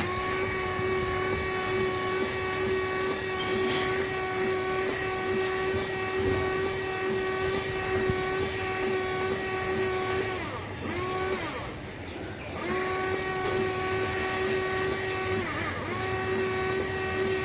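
Ferrari Mondial V8 engine held at steady high revs, a high even whine, easing off and picking up again about ten seconds in, dropping away briefly around twelve seconds and again near sixteen seconds.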